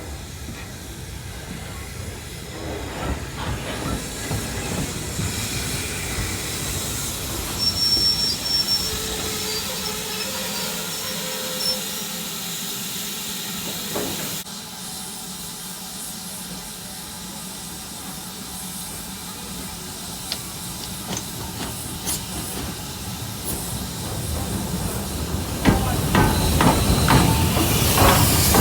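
Heritage steam train: a steady hiss of steam over rail noise, with a brief high squeal about eight seconds in. Near the end it grows louder, with a run of sharp clicks and rattles.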